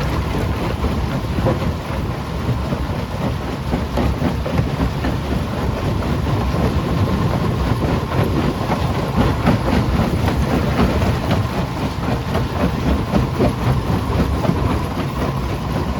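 Primary jaw crusher running, with a steady heavy rumble and a continuous dense rattle and knocking of rock being broken.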